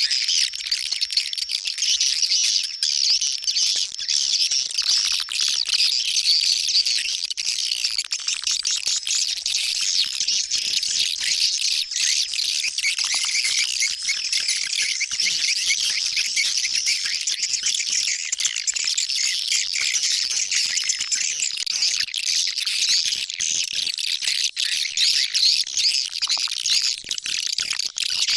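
Swiftlet lure-call audio: a dense, unbroken twitter of high chirping swiftlet calls, the kind used to draw swiftlets into a nesting house.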